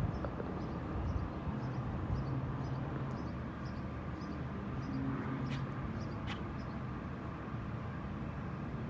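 Small school bus engine idling with a steady low hum, while a bird chirps repeatedly, about twice a second.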